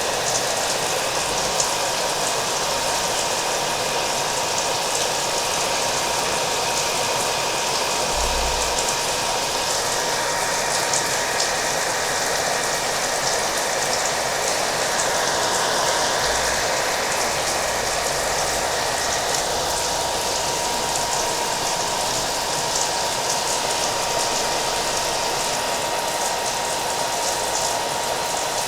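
Hair dryer running steadily, a constant rushing hiss with a thin steady hum, mixed with the patter of rain.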